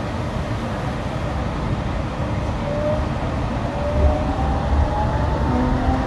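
Yurikamome rubber-tyred automated train running, with a steady low rumble. From about two and a half seconds in, a set of electric motor whines rises in pitch as the train speeds up.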